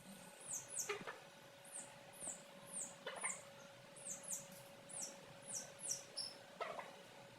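Chicks peeping: a steady run of short, high, falling cheeps, about two a second, with a few soft knocks in between.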